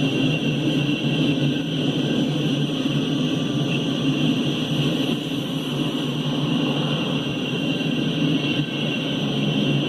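The 16-cylinder two-stroke diesel engines of EMD SD70MAC locomotives on a freight train run steadily, giving a low, even engine hum with a steady high whine above it.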